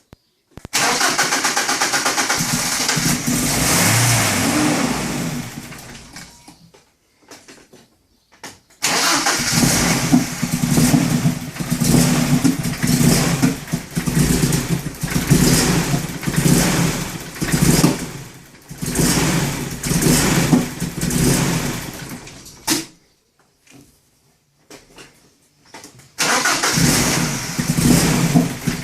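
BMW 318is M42 four-cylinder engine running with a rough idle, its level rising and falling unevenly, in three stretches with silent gaps between them. The idle stays rough with a clean idle control valve and a new crank position sensor, and the owner wonders whether a coil pack is at fault.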